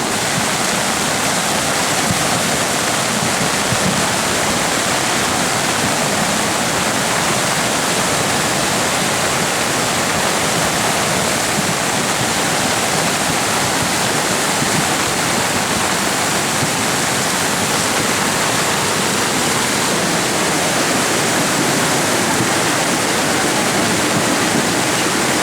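Floodwater of a creek in flash flood rushing past in a loud, steady, unbroken roar.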